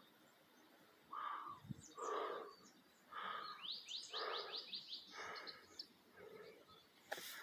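Birds calling: a lower call repeats about once a second, and a quick run of rising high chirps comes in the middle.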